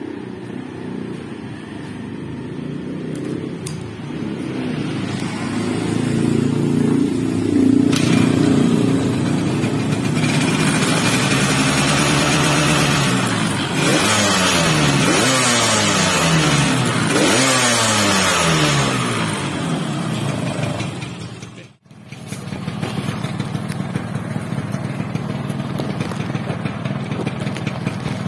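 Yamaha RX-King's two-stroke single-cylinder engine, fitted with a catalytic muffler, running while the bike stands parked. It is revved several times from about ten seconds in, each rev rising and then falling back. After a brief break near the end it runs steadily.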